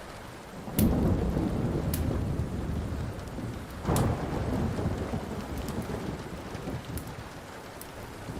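Thunderstorm with steady rain: thunder breaks suddenly about a second in and rolls on, with a second loud clap around four seconds before it fades back into the rain. A few sharp pops from a crackling wood fire sound through it.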